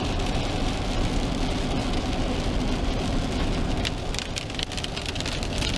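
Rain hitting a car with a steady low road and engine noise in the cabin; from about four seconds in, separate sharp raindrop hits come through more clearly.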